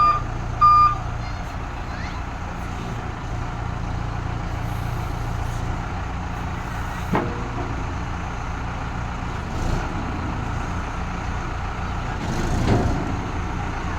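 A heavy diesel engine running steadily, with a reversing alarm beeping twice near the start. There is a short sharp knock about seven seconds in and a heavier clunk near the end.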